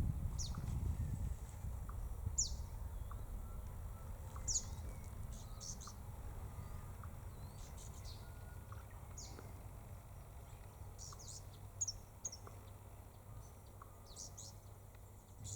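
Birds chirping: scattered short, high chirps that drop quickly in pitch, some in quick pairs, over a low rumble that is strongest in the first couple of seconds and then eases.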